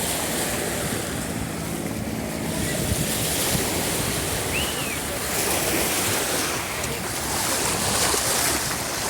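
Waves washing onto a sandy beach, with wind on the microphone; the surf swells twice in the second half.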